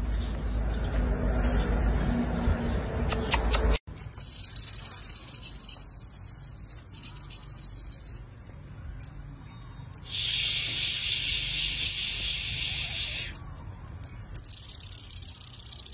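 Sunbird singing: very high, fast trills repeated in bursts of a few seconds, with a few short single notes between them. Low rumbling noise fills the first four seconds, then cuts off abruptly, and a steady hiss runs for about three seconds in the middle.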